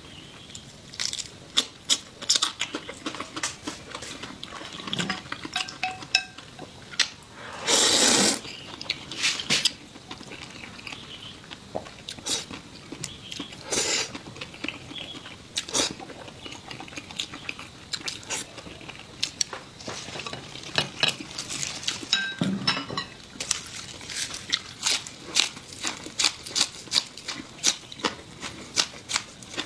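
Someone eating at a table: utensils clicking and clattering against bowls and dishes in many sharp, irregular clicks, with a brief louder burst of noise about eight seconds in.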